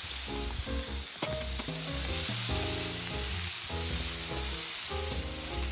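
Chicken and mushrooms frying in a pan, a steady sizzle, with background music playing over it.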